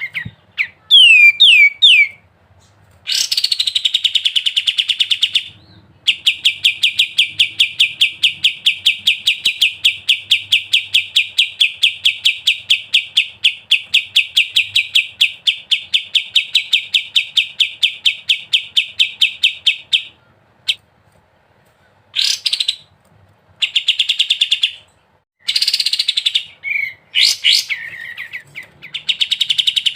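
Kapas tembak songbird singing its 'ngebren' song: a long, fast rattling trill of evenly repeated notes lasting about fourteen seconds, with a few quick falling whistled notes before it and shorter trills and phrases after.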